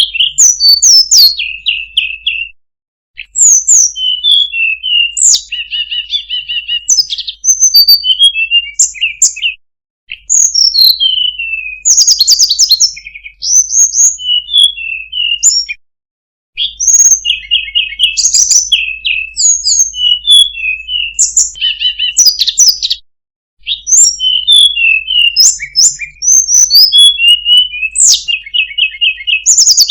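Tledekan gunung singing loud, varied song phrases of rapid chirps, slurred whistles and trills. The song breaks off briefly four times between phrases.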